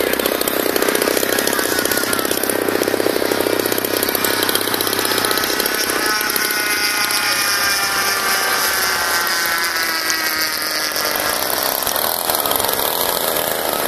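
Single-cylinder two-stroke DLE 20cc gasoline engines of RC model warplanes running at high speed. A close engine runs hard for the first few seconds, then from about six seconds in the engine notes of planes in flight slide slowly down in pitch as they pass.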